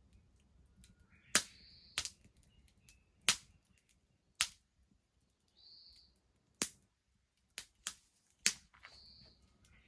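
Wood bonfire crackling: about eight sharp, irregular pops from the burning logs, with a few short, faint hisses in between.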